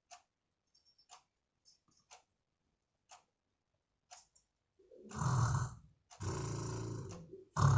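Loud snoring from a person: three long snores in a row from about five seconds in, after a few seconds with only faint clicks. The snoring is put on deliberately as a prank.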